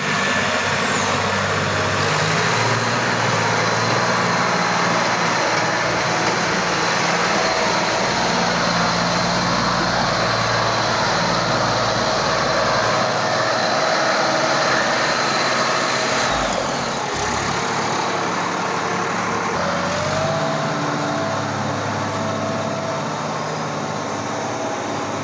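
Sonalika DI 750 tractor's diesel engine running steadily. About 17 s in the engine note changes and drops slightly in level, and a short rising tone follows near 20 s.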